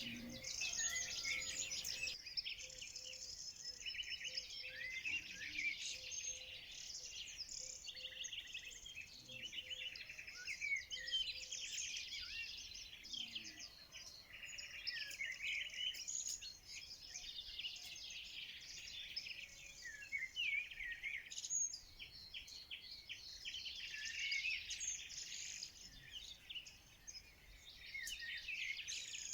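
Many songbirds singing at once: a dense chorus of overlapping high chirps and trills that never stops.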